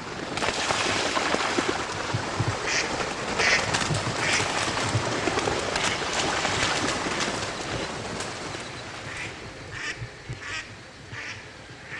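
A large flock of ducks quacking repeatedly over a dense rushing noise as they pour into flooded timber. The rush swells about half a second in and eases near the end, leaving the calls more distinct.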